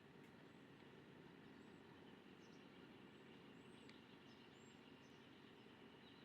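Near silence: faint steady background noise with a few faint, short, high-pitched bird chirps scattered through.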